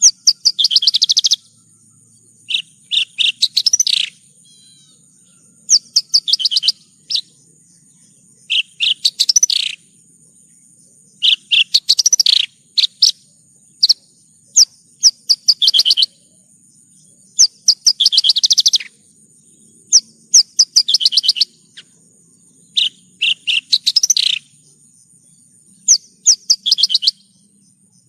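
Javan bush lark (branjangan) singing: a string of quick, rapid-chirping phrases about a second long each, repeated every couple of seconds with short pauses between. A faint steady high-pitched tone runs underneath.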